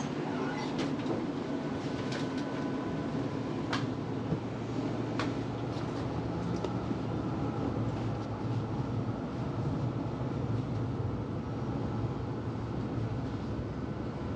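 Melbourne tram running along its track, heard from on board: a steady rumble with a low motor hum. A few sharp clicks and knocks come in the first five seconds, typical of wheels crossing rail joints or fittings rattling.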